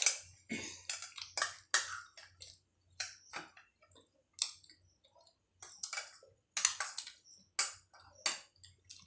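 Close mouth sounds of people eating luchi with ghugni and aloo dum: irregular wet chewing clicks and lip smacks, with a short lull around the middle.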